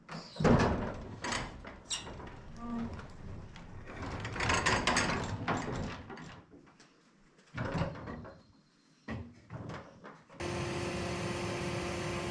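A large old door being opened by hand: a series of knocks and scrapes, with a longer scraping slide in the middle. About ten seconds in, a steady vehicle engine sound starts abruptly and keeps running.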